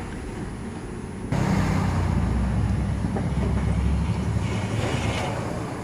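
A low vehicle-engine rumble that comes in abruptly just over a second in and holds steady.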